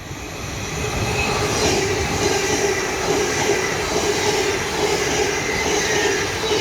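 A train running past at close range. It grows louder over the first second or so, then holds a loud, steady rumble with a whine running through it.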